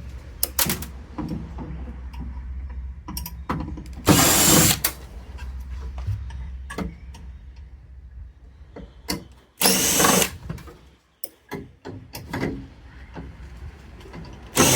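Power drill-driver spinning screws out of a hot water heater's casing in short bursts, each under a second, about four seconds in, again about ten seconds in and once more at the end, with small clicks and knocks between.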